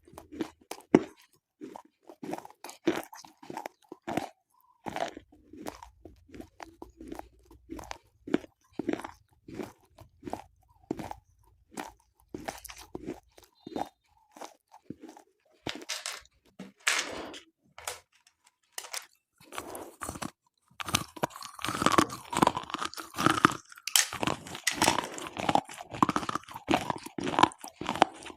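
Slate pencils being bitten and chewed up close, with sharp, irregular crunches. The crunching turns denser and louder about two-thirds of the way in.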